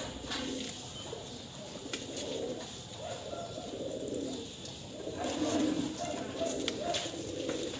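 Domestic pigeons cooing, several low coos overlapping, growing louder about five seconds in.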